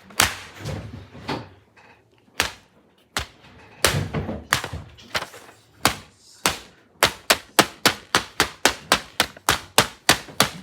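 Repeated sharp taps and thumps of hands hitting a homemade paper laptop. The strikes are scattered at first, then a fast, even run of about four or five a second from about seven seconds in.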